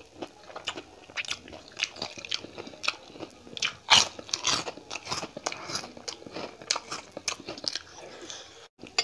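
Close-miked eating sounds: chewing and crunching of fried milkfish and rice eaten by hand, with many sharp wet mouth clicks and smacks. The loudest crunch comes about four seconds in.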